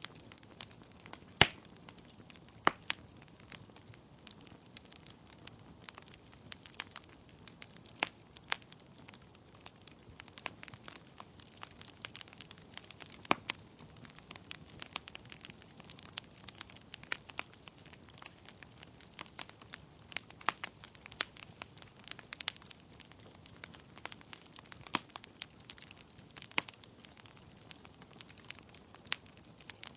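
Wood fire in a fireplace crackling: irregular sharp pops and snaps from the burning logs over a low steady hiss, with the loudest pop about a second and a half in.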